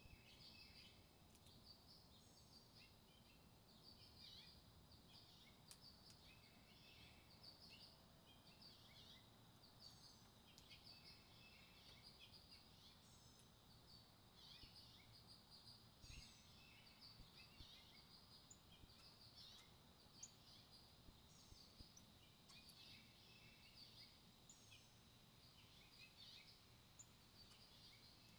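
Songbirds chirping and calling faintly, a steady scatter of short, high chirps over a low background hiss.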